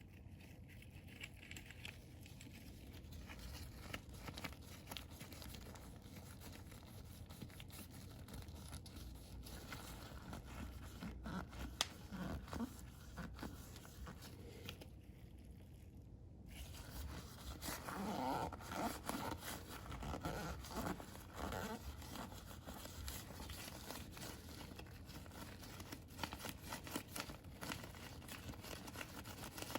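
Faint, irregular scraping and rustling with light clicks: hands working on the small parts of a reusable oil filter during cleaning. The scraping is busiest in the middle of the stretch, and there is a short break about halfway through.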